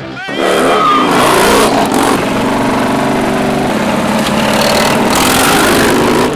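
V-twin motorcycle engine under way, shifting in pitch as it revs over the first couple of seconds and then running steadily.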